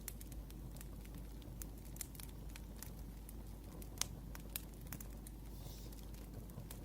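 Wood fire crackling: scattered sharp pops and snaps, one louder snap about four seconds in, over a steady low hum.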